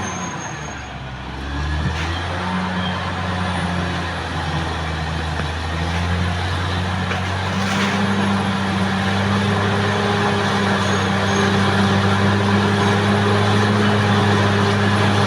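Caterpillar D6R XL bulldozer's diesel engine running steadily. Its note dips briefly about a second in, then comes back up and holds, a little louder in the second half.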